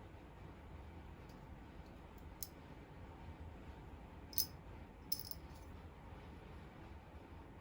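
A few light clicks and clinks of small hard parts or tools being handled, the loudest about halfway through and a quick double click just after, over a low steady hum.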